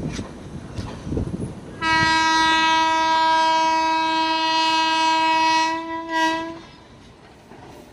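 Indian Railways locomotive horn sounding one long, steady blast of about five seconds, starting about two seconds in. Before it, wheels clatter over the rails.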